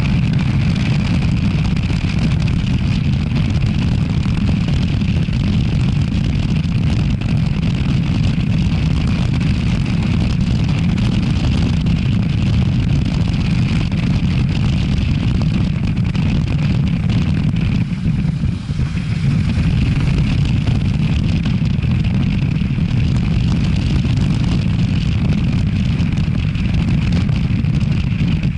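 Steady low rumble of wind buffeting a helmet-mounted camera's microphone, mixed with road and vehicle noise while riding in traffic. It drops away briefly about eighteen seconds in.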